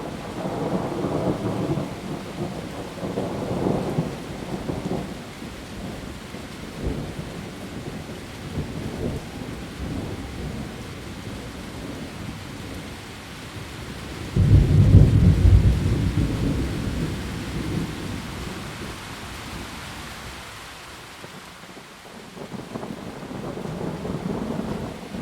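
Heavy rain falling on leaves during a thunderstorm, with rolling thunder: a rumble over the first few seconds, a sudden loud clap about halfway through that rolls away over several seconds, and another rumble near the end.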